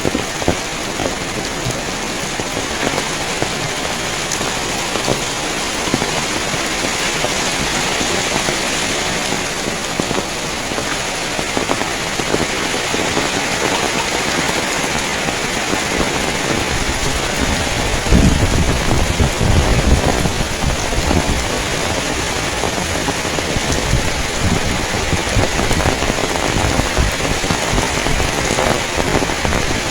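Heavy rain falling steadily, making a dense, even hiss. About two-thirds of the way through, a low rumble swells up for several seconds.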